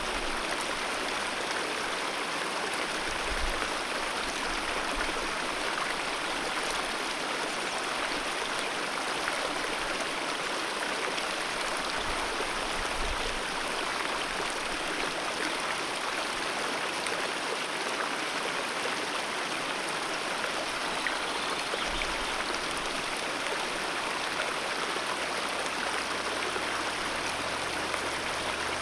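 Fast-flowing alpine mountain river rushing over rocks: a steady, unbroken roar of water.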